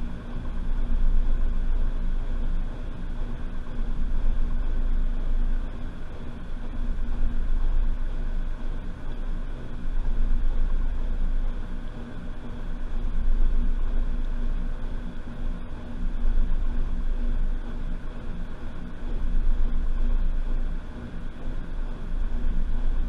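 Washing machine running, heard from inside the drum: a steady low motor rumble that swells and eases about every three seconds as the drum turns.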